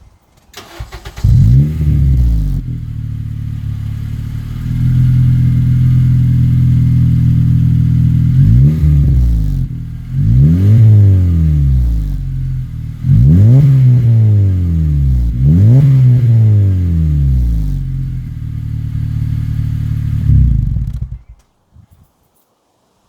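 Acura TSX engine through a Tsudo stainless header-back exhaust. It starts about a second in and idles, then is revved in four quick blips, each falling back to idle, and is switched off near the end.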